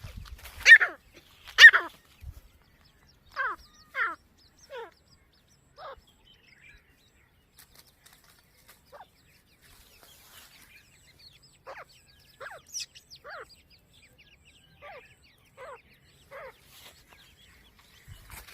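Grey francolins calling: short calls that slide sharply down in pitch. Two loud calls come in the first two seconds, followed by fainter, irregularly spaced calls.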